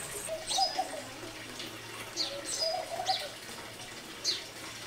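Birds chirping: a handful of short, quick chirps that fall in pitch, spaced a second or so apart, over a faint background.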